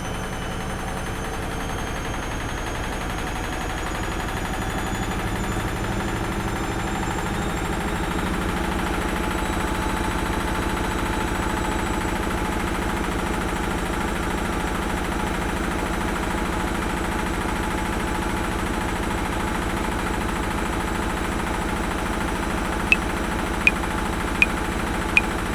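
Washing machine running steadily: a motor hum with a fast fine rattle underneath and a faint whine that climbs slowly in pitch, building in loudness over the first ten seconds. Near the end, metronome clicks come in at 80 beats a minute, four of them, one every three-quarters of a second.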